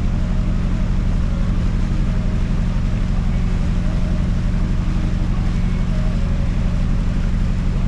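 Boat engine running steadily at an even speed, a constant low drone.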